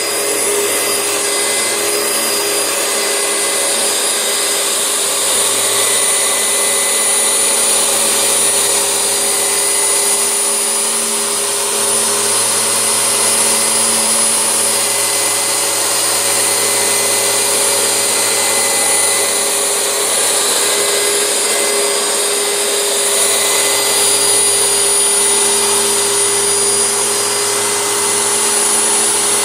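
Oreck vacuum cleaner running steadily over carpet with its soft-bristled brush roll: a constant rush of air under a thin high whine, swelling slightly now and then.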